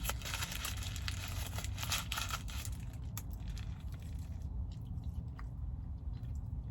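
Close-miked chewing and biting of a McDonald's burger: wet, crunchy mouth clicks, dense for the first few seconds and then sparser.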